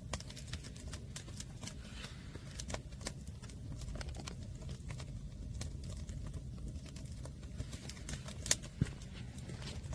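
Fire of green firewood burning, with irregular sharp crackles and pops over a low steady rumble; the loudest pop comes near the end.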